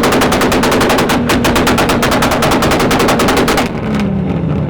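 High-powered car engine held at high revs, bouncing off the rev limiter in a rapid, even stutter of exhaust pops about ten a second. The pops stop a little before the end and the revs fall away.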